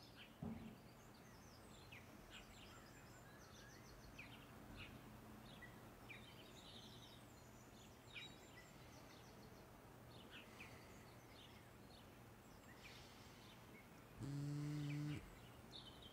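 Faint bird chirps over quiet room tone. Near the end comes a low, steady buzz lasting about a second.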